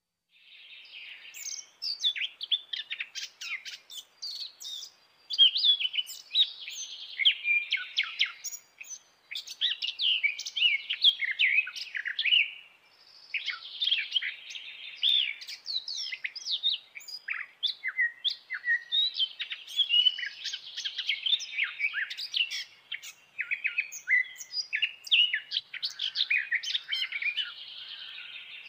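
Eurasian blackcap singing: repeated bouts of rapid, varied warbling phrases, each a few seconds long, with short pauses between them.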